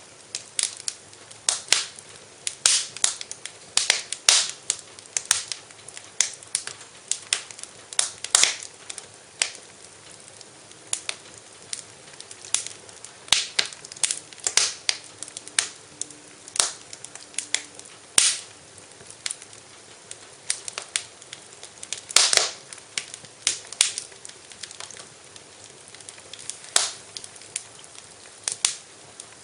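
Wood fire crackling in a fireplace: irregular sharp pops and snaps, several a second at times, over a low hiss, with a louder pop a little past the middle.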